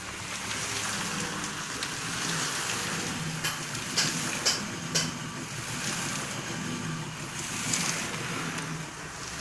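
A septic siphoning (vacuum) truck's engine and suction pump running steadily, with a rushing hiss over a low hum. Three sharp knocks come about four to five seconds in.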